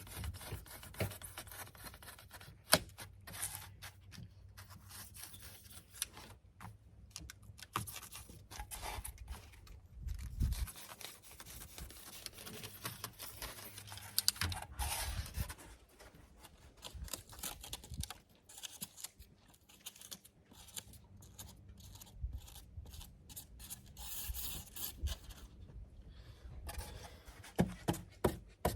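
Insulation material being handled and cut, heard as irregular scraping, rubbing and tearing noises with scattered clicks. Near the end a quick run of taps starts, about three a second.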